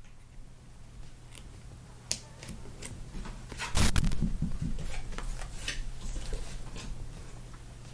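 Trading cards being handled on a table: a run of light clicks and swishes, with a louder bump about four seconds in.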